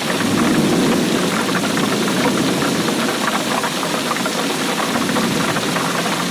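Steady rainfall, a dense and even spread of drops with no breaks.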